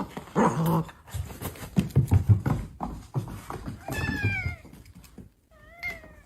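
Cat meowing twice: a falling call about four seconds in and a shorter, wavering one near the end. Before the calls there are a few seconds of knocks and rustling.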